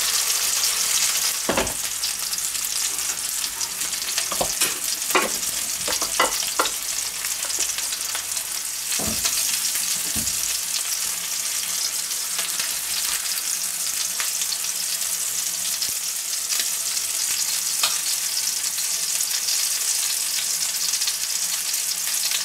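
Veal loin steak and a fried egg sizzling steadily in hot oil in a nonstick frying pan. A few sharp clicks and knocks of kitchen utensils against the pot and pan come mostly in the first ten seconds.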